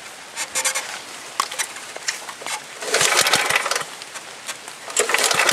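Two pulls on the recoil starter of a 5 hp Tecumseh H50 single-cylinder flathead engine, each cranking it over for about a second. The engine does not catch, being cold and wet from the rain with the choke on. Faint rain patters in between.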